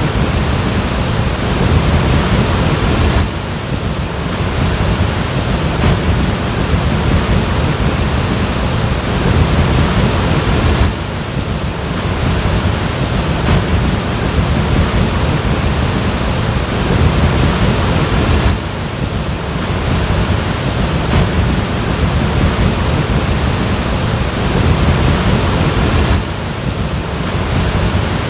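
Loud, steady rushing of floodwater, heavy in the low end, with wind buffeting the microphone. The sound drops off briefly about every seven and a half seconds.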